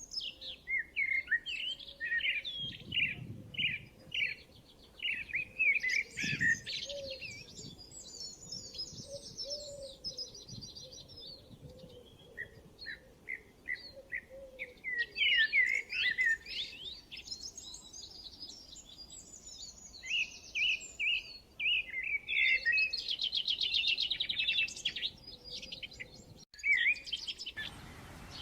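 Several birds singing and chirping, with quick repeated chirps and fast trills; the background hiss shifts abruptly near the end.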